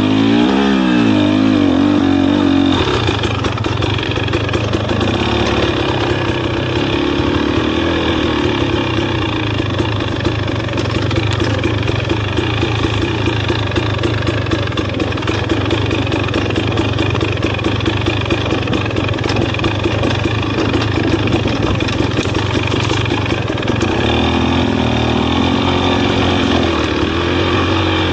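Dirt bike engine running hard on a trail ride, its revs rising and falling as the rider works the throttle, with a steady noisy rush under it.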